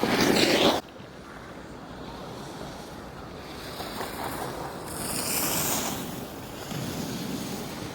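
Sliding on a groomed ski slope: a loud scrape of edges across the snow that cuts off suddenly just under a second in, then a softer hiss of gliding with wind on the microphone, swelling again around five seconds in.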